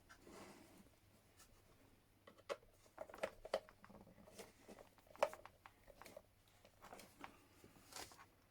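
Faint, scattered small clicks, taps and rustles of hand work on cables, as wires are fitted into a speed controller's terminals.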